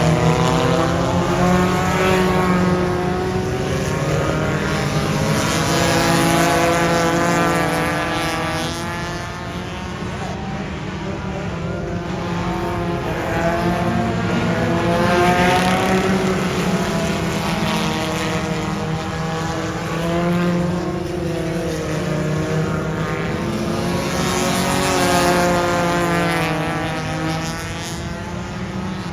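Dirt track race cars running laps, their engines swelling and fading again and again as they pass, the engine note rising and falling.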